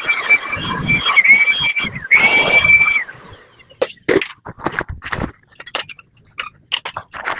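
A machine with a steady high whine and hiss, which dips in pitch twice and cuts off suddenly about three seconds in. After that come scattered clicks and knocks of handling.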